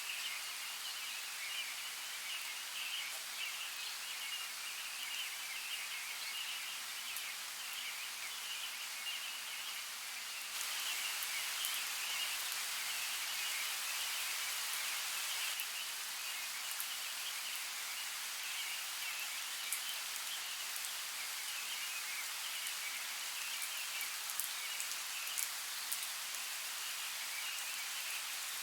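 Steady hiss of running water in a forest creek soundscape, with a few faint scattered ticks like drips. The water grows louder for about five seconds a third of the way in, then settles back.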